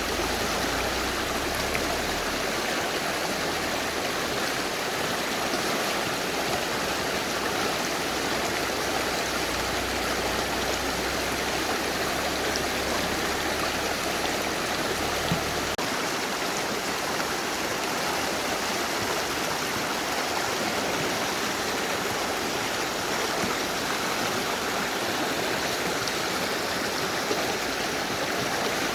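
Mountain river rushing steadily over rocks: a constant, even wash of flowing water.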